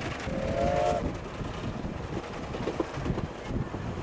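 Steam-hauled passenger train running, heard from on board: a steady rumble with irregular knocks and rail clatter, and a short pitched tone about half a second in.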